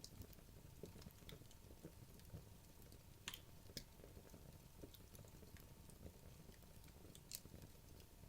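Wood logs burning in a fireplace: faint, scattered crackles and sharp pops over a low, steady rumble of the fire, with a few louder pops a little past three seconds in and again past seven seconds.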